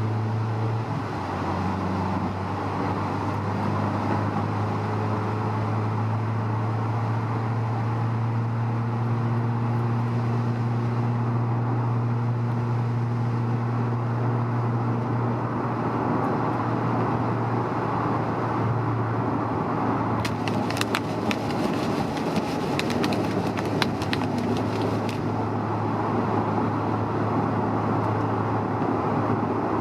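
Cabin noise of a Honda S2000 cruising: a steady low engine and road drone with tyre hiss. A run of sharp clicks comes about two-thirds of the way through and lasts a few seconds.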